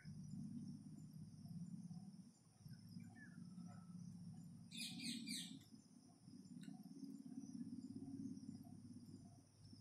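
Faint birds chirping in the background, with a quick run of chirps about five seconds in, over a steady low hum.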